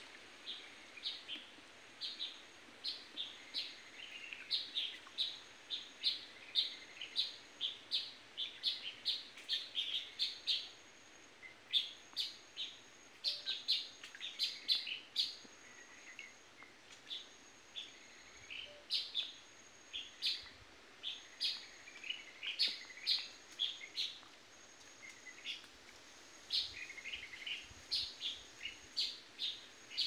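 Birds chirping: a steady stream of short, high calls, several a second, over a faint hiss of background noise.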